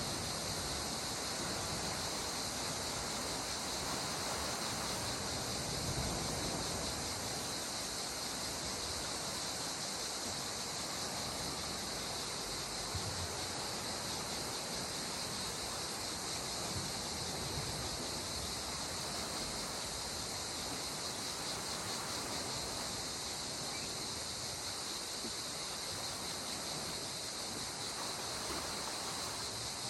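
Steady wash of sea water at the shore, under a constant high-pitched insect chorus.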